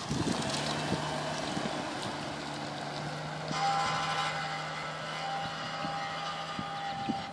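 An SUV's engine running steadily as the vehicle drives away. A higher steady whine joins it about three and a half seconds in.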